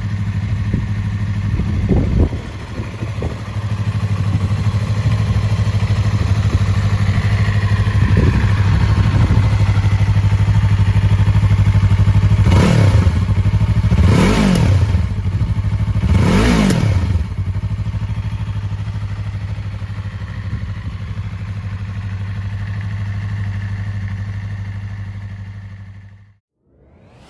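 Yamaha YZF-R3's 321 cc parallel-twin engine idling steadily, its throttle blipped several times: small revs about two and eight seconds in, then three sharper revs in quick succession near the middle. The engine is switched off near the end and the sound stops abruptly.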